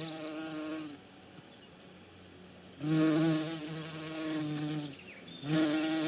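Honeybee buzzing in flight, a steady humming drone that swells and fades as it comes and goes, loudest about three seconds in.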